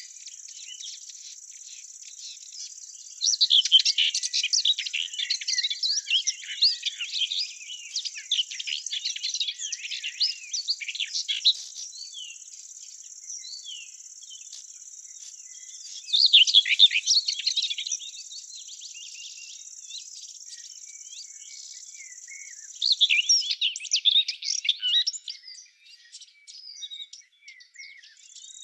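Songbirds singing in bouts of rapid, high twittering phrases over a steady high-pitched insect trill. The trill drops out near the end.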